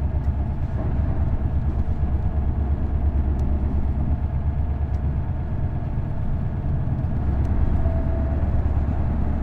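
Isuzu Erga city bus's V8 diesel engine running, heard from inside the cabin, with a steady low throb that dips briefly about six seconds in and then builds again.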